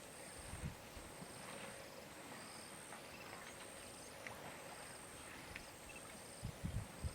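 Quiet bush ambience: high, evenly repeating insect trills pulsing about once a second, with a few soft low thuds about half a second in and a cluster of them near the end.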